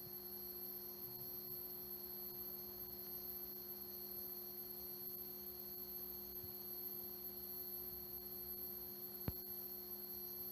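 Bulova Accutron 219 tuning-fork watch movement humming with a steady, pure tone. A single click about nine seconds in.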